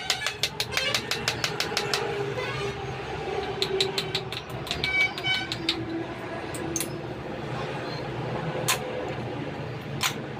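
Metal tool clicks and clinks during brake work: a quick run of sharp clicks, about five or six a second, for the first two seconds. Scattered single knocks and clinks follow, one of them ringing briefly, over a steady low hum.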